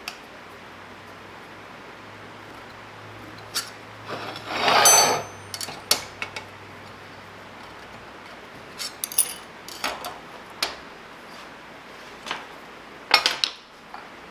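Metal layout tools clicking and scraping against a steel plate while its center is found: scattered light clicks, a longer scrape about five seconds in and a sharper clatter near the end, over a steady low shop hum.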